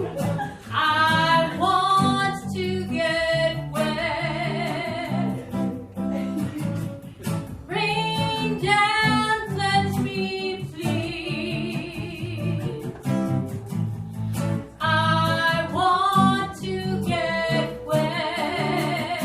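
Live band music: a singer's sustained phrases, some held with vibrato, over strummed guitar.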